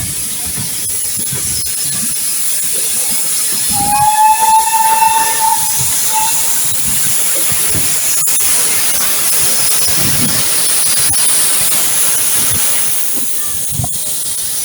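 Steam locomotive hissing steadily as steam escapes, with one steady steam-whistle blast about four seconds in lasting roughly two seconds. A single sharp knock about eight seconds in.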